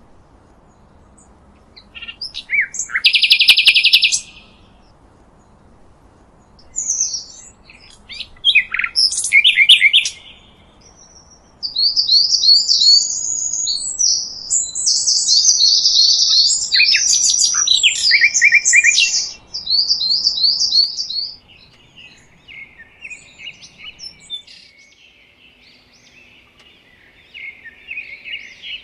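Songbird song: loud, rapid, high-pitched phrases of repeated notes in several bouts with short pauses, the longest in the middle, followed by fainter chirping near the end.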